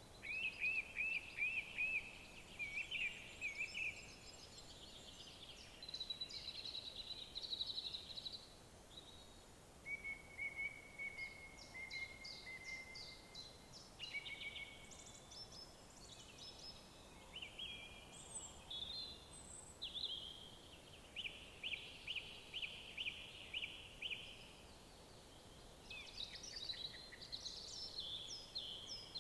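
Several songbirds singing in woodland: short phrases of repeated notes and quick trills, one after another, over a faint steady background hiss.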